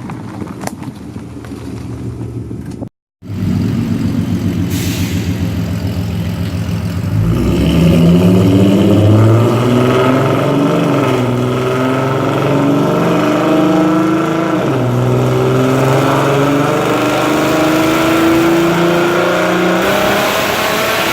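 Loud exhaust of a 4.0 V6 Mustang with long-tube headers, cat deletes and Cherry Bomb glasspacks, pulling under load. The pitch climbs from about seven seconds in, drops back near fifteen seconds, then climbs again. Before that, wind noise on the microphone cuts out briefly about three seconds in.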